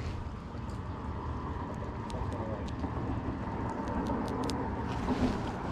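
Light rain pattering, with scattered drops ticking sharply, over a steady low rumble.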